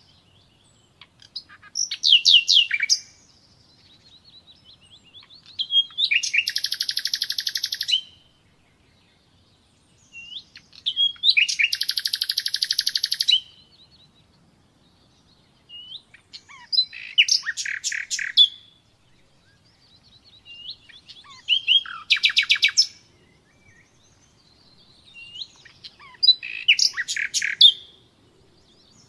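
Nightingale singing: about six separate phrases a few seconds apart, each a fast run of rapidly repeated notes, the two longest lasting about two seconds each.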